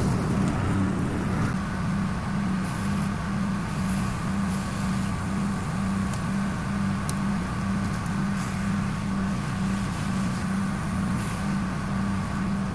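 An engine running at a steady speed: a low, even hum with a slight pulsing about twice a second.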